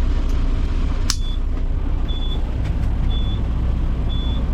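Western Star dump truck's diesel engine idling steadily, heard in the cab, with a sharp click about a second in, followed by a high-pitched cab warning beep that repeats about once a second.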